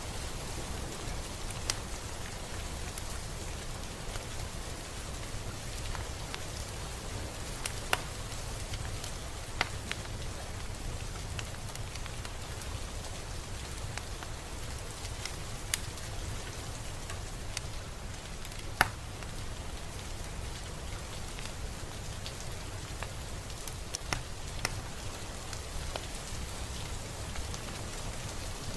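Steady rain falling, a constant hiss with a low rumble underneath, and scattered louder single drop impacts at irregular intervals.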